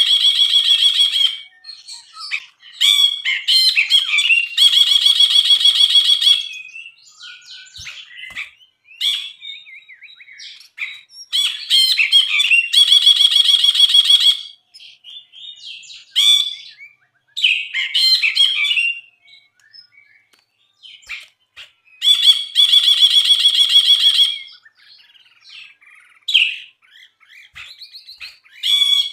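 A brinji (bulbul) singing: a loud, rapid rattling phrase about two seconds long, repeated four times, with shorter varied chirps and whistles between.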